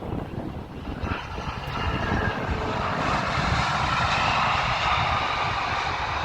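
Airplane engines growing louder, with a hissing, whining noise that builds from about two seconds in and peaks around four to five seconds in.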